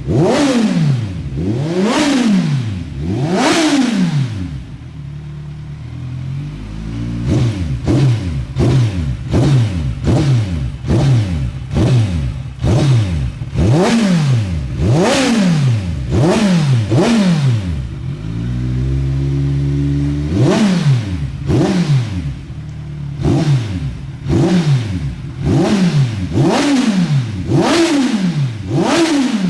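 Kawasaki Z1000's inline-four engine free-revving in quick throttle blips, the pitch shooting up and dropping straight back, about one a second. Twice it settles into a steady idle for a few seconds before the blipping starts again.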